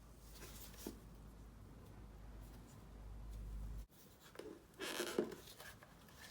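Scratchy rubbing and scraping of hands working scooter head-panel parts, in a short burst past the middle. Before it, a low hum breaks off abruptly.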